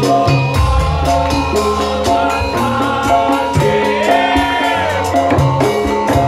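Javanese traditional ensemble music with sustained pitched instrument tones over a steady drum and percussion rhythm, and a singer's voice holding a long bending note about four seconds in.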